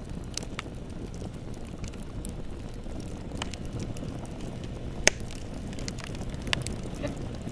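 Bonfire burning: a steady low rumble of flames with scattered sharp crackles and pops, the loudest pop about five seconds in.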